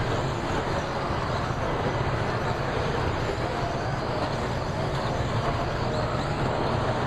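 A pack of radio-controlled racing trucks running together on the track, their motors and tyres making a steady, dense noise.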